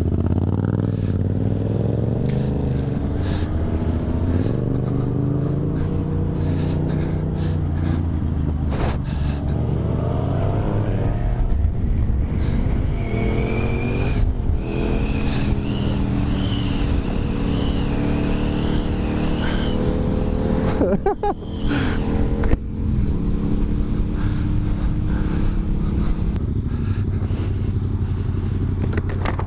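2015 Suzuki GSX-R 750 inline-four with an Akrapovic slip-on exhaust, riding along, its pitch rising and falling with throttle and gear changes, under wind rush on the helmet camera. A thin wavering whine is heard for a few seconds near the middle.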